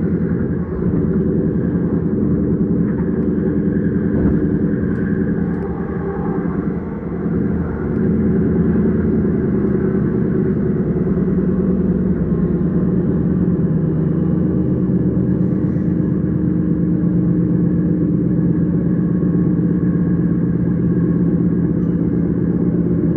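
S-Bahn electric train running, a steady rumble with a low hum that shifts in pitch briefly, then holds steady.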